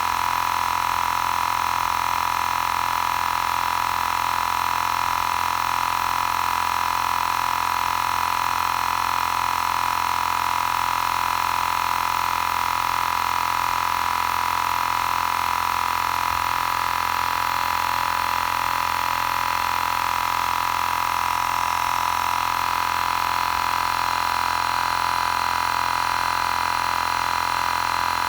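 Xiaomi Portable Electric Air Compressor 2 running steadily with a high, even whine, pumping air into a spare tyre.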